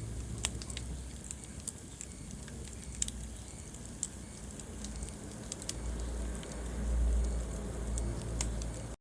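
Wood fire burning in a fireplace, crackling with irregular sharp pops over a low rumble of the flames.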